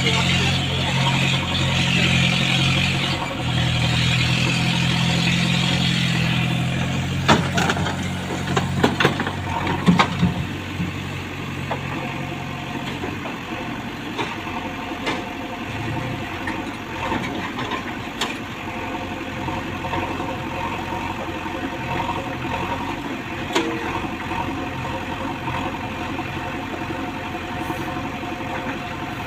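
A heavy diesel engine running hard for the first several seconds, then a few sharp knocks and clanks, after which the engine settles to a quieter, steady idle.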